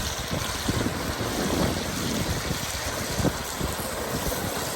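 Steady rush of a river running, with wind buffeting the microphone in low, uneven rumbles.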